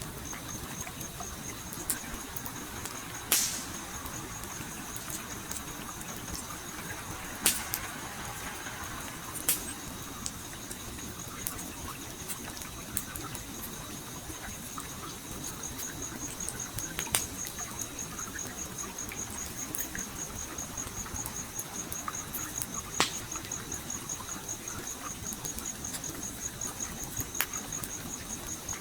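Campfire crackling, with several sharp pops a few seconds apart, over the steady rush of a flowing stream. A high, pulsing insect trill starts about half a second in and runs on.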